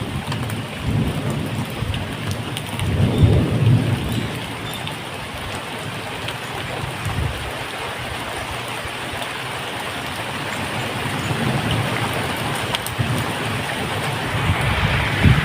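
Steady medium rain falling, with a low rumble of thunder that builds about a second in and is loudest around three seconds in, and another short rumble near the end.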